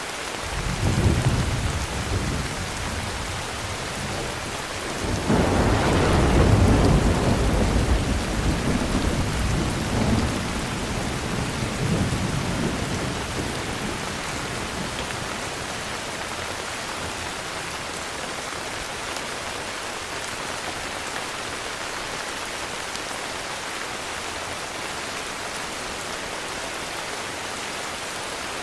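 Steady heavy rain with thunder. A rumble starts at once and dies away after a few seconds. A louder, longer roll of thunder begins about five seconds in and fades out by about thirteen seconds, then the rain runs on alone.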